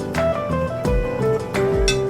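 Background music: light instrumental with plucked guitar and a steady beat.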